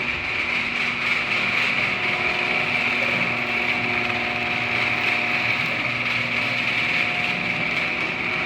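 Genie screw-drive garage door opener running steadily as it lowers the door: an even motor hum with a high whine over it.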